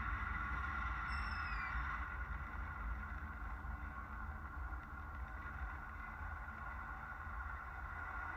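Falcon 9 first stage's Merlin engines during ascent: a steady low rumble with hiss, about twenty seconds after liftoff. A brief faint falling tone sounds about a second in.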